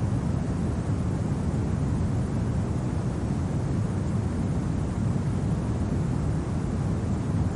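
Steady low rumble of winter wind, an even noise without any distinct events.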